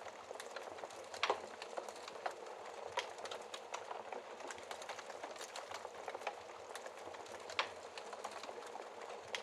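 Wood fire crackling in a fireplace: a steady hiss dense with small crackles, with louder pops a little over a second in, about three seconds in, and near the end.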